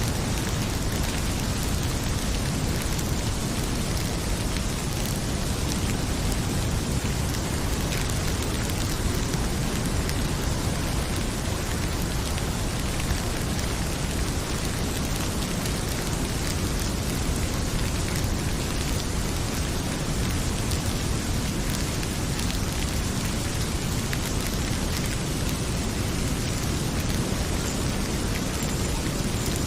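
Heavy rain pouring steadily, a dense, even hiss, with a few faint pops and crackles from a wood fire in a fireplace.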